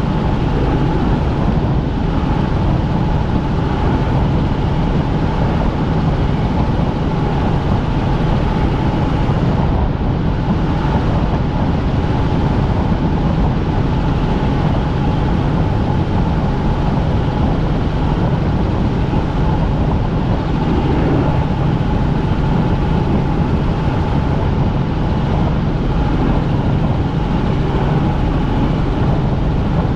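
Helicopter in flight: steady, loud drone of the turbine engine and rotors, with a constant whine over a low hum.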